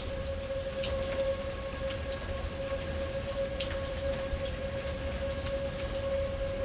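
Steady rain with scattered drop clicks, and a siren holding one steady pitch underneath it, with a low rumble of storm noise below.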